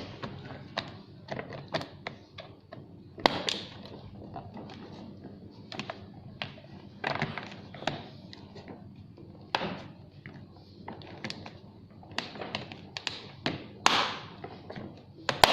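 Irregular clicks, taps and knocks of parts being handled and fitted while assembling a 12 V ride-on toy truck, with a few louder knocks around three seconds in and near the end.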